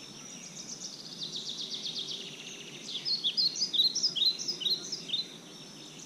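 Songbirds singing: a fast trill of rapidly repeated high notes through the first half, then a string of short, separate down-slurred notes, loudest a little past the middle.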